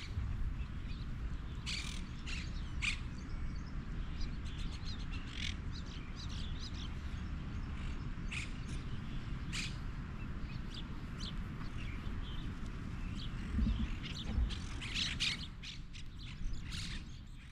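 A flock of birds calling: many short chirps and squawks, scattered and overlapping, clustering about two seconds in, near the middle, and again near the end, over a steady low rumble.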